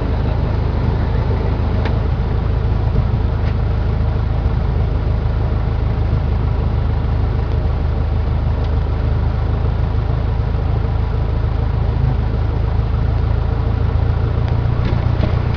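Cessna 152's four-cylinder Lycoming O-235 piston engine and propeller running steadily at low power, a constant low drone.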